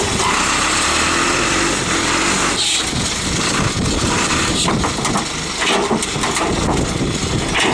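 John Deere backhoe's diesel engine running hard as it presses its bucket down on a 1992 Honda Civic, with a few sharp crunches from the car's body.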